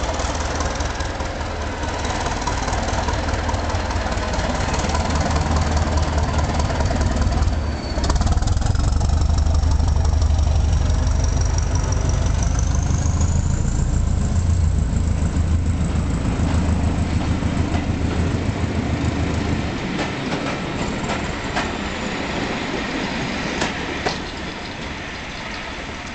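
Southern Region 'Thumper' diesel-electric multiple unit pulling away: its English Electric four-cylinder engine runs with a heavy low rumble, and a high whine rises in pitch as the train gathers speed. The engine sound eases and fades in the last few seconds as the unit moves off.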